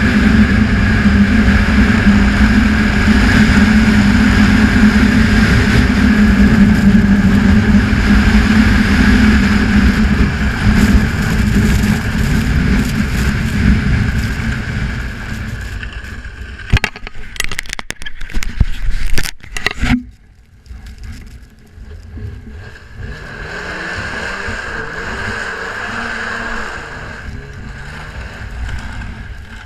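Snowmobile engine running steadily at speed, then easing off about halfway through. A cluster of sharp knocks comes about two-thirds of the way in, then the engine runs quieter, its pitch rising again near the end.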